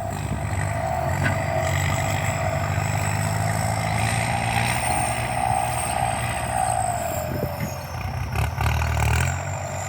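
Kubota M8808 tractor's turbo diesel engine working hard under load while pulling a disc plow, with a high turbo whistle over the engine's running. The pitch sags about seven seconds in.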